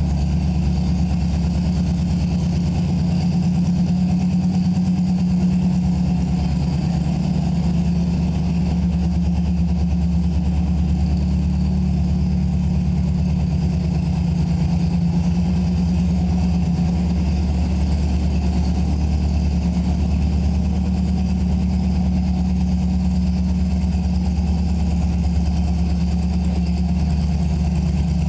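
1964 Porsche 356C's air-cooled twin-plug 1720cc flat-four, breathing through a Sebring exhaust, idling steadily after a cold start.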